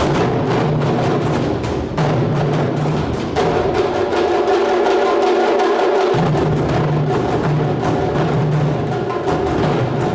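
Ensemble of Japanese taiko drums playing a fast, dense rhythm of strikes, with sharp clicking hits among the drumbeats. A held higher tone sounds over the drumming from about three and a half seconds to about seven seconds in.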